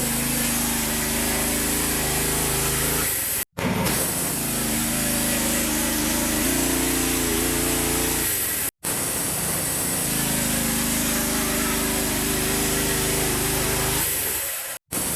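Small petrol engine of a log-milling saw running at steady high speed while it cuts along a log into boards. The pitch dips and recovers slightly under load, and the sound breaks off abruptly three times.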